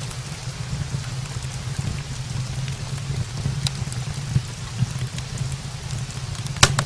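Steady rain with a low rumble, against scattered sharp crackles from a wood fire burning in a brick fireplace. One louder crack comes near the end.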